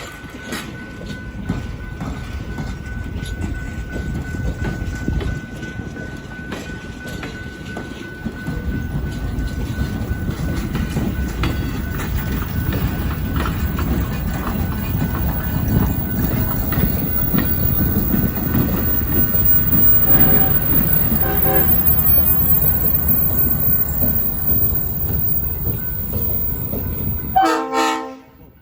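Train rolling across a street crossing, a steady rumble of wheels on rail. Two short horn toots come about two-thirds of the way through, and a loud horn blast sounds just before the sound cuts off near the end.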